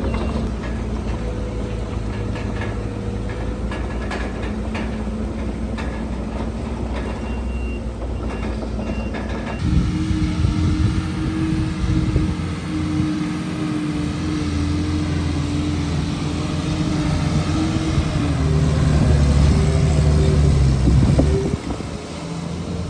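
Diesel engines of heavy earthmoving machinery running, with scattered clanks early on. About ten seconds in the sound switches abruptly to a louder engine that swells toward the end and then drops off suddenly.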